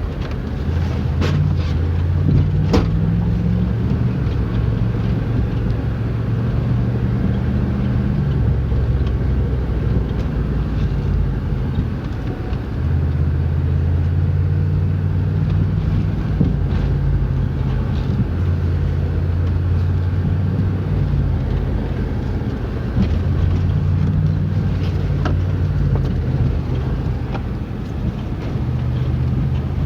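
Old Jeep's engine and drivetrain running while driving, the engine note shifting up and down in pitch several times as speed changes. Two sharp clicks about one and three seconds in.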